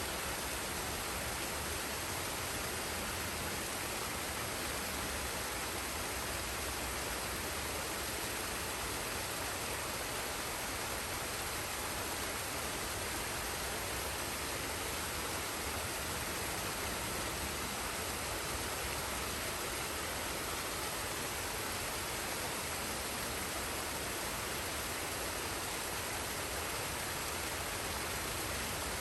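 Forest waterfall and stream: water falling and rushing in a steady, unbroken hiss.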